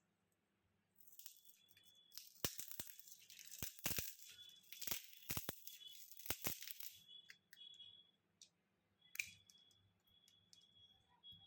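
Scratching and crackling with many sharp clicks of hand tools prying and scraping at a Vivo Y27 smartphone during disassembly, busiest for several seconds from about a second in, then thinning to a few scattered clicks.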